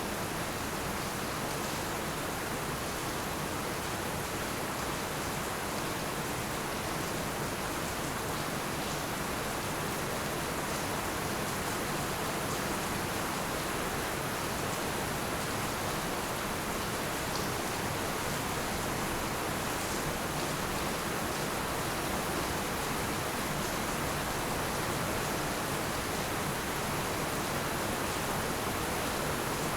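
Heavy rain falling steadily: a dense, even hiss with no change in strength.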